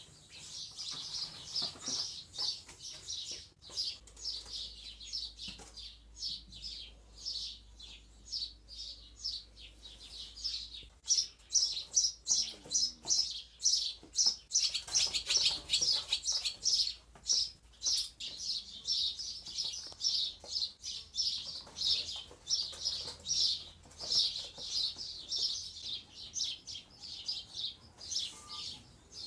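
Small bird chirping and twittering in quick, continuous runs of short high notes.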